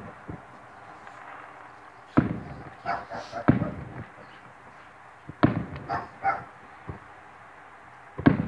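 Distant aerial fireworks shells bursting: a series of booms starting about two seconds in, roughly half a dozen over the next six seconds, each trailing off in a rumbling echo.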